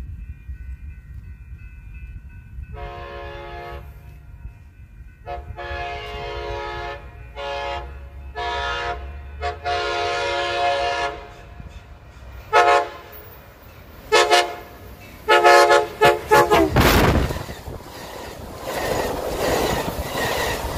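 An approaching Amtrak passenger train sounds its multi-note horn in a series of blasts, several long ones and then a few short ones, over a low rumble. About 17 seconds in, the locomotive passes close by, and the double-deck cars roll past with a rumble and clatter of wheels on the rails.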